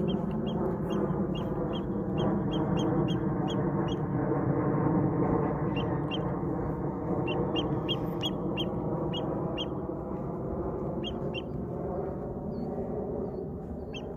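Birds calling: runs of short, high chirps, about three or four a second, over a dense, steady lower din.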